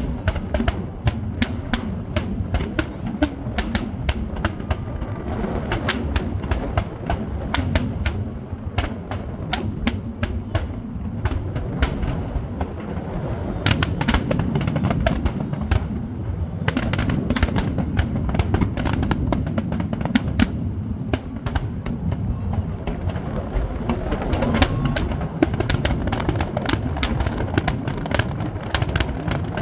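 Fireworks going off without a break: a dense run of sharp cracks and pops over a steady low rumble.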